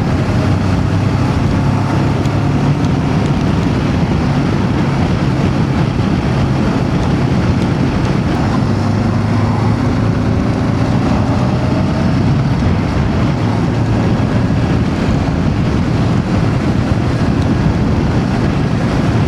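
Voge DS525X parallel-twin motorcycle engine running steadily while riding, under a constant rush of wind noise on the microphone.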